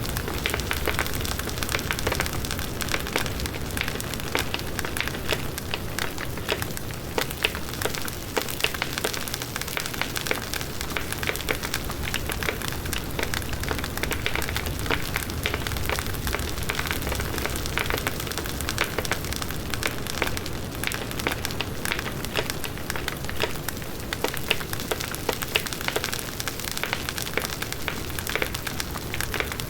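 Wood bonfire crackling, with dense irregular pops and snaps over a steady rushing noise of the flames.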